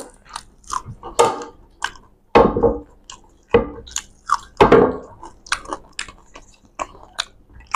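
Close-up chewing and lip-smacking of people eating rice by hand, with many quick wet clicks and a few louder, longer mouth sounds.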